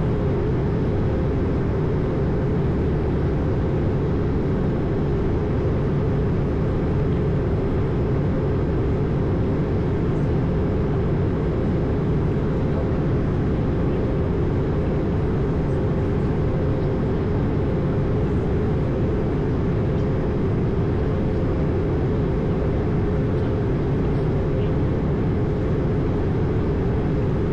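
Steady in-flight noise heard from the cockpit of an Airbus A220: air rushing past the airframe and the drone of its Pratt & Whitney PW1500G geared turbofans, with a thin steady hum.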